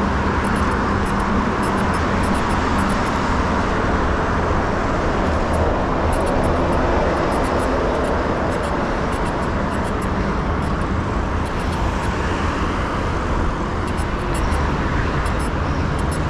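Steady road-traffic noise of cars and buses, with the rush of riding air over the microphone of a bicycle-mounted action camera.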